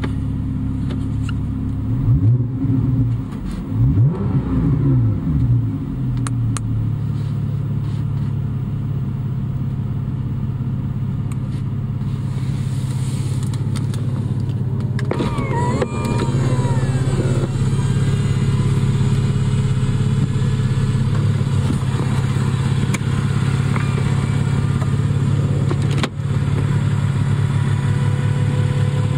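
Porsche 911 Targa 4 GTS flat-six engine idling, blipped twice a few seconds in. About halfway, the electric Targa roof mechanism starts working, with motors whining and changing pitch and a few clicks over the steady idle.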